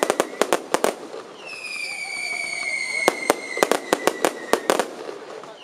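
Aerial fireworks bursting: quick clusters of sharp bangs and crackles, one at the start and another from about three seconds in. A long, high, steady whistle comes in about one and a half seconds in and slowly slides down in pitch.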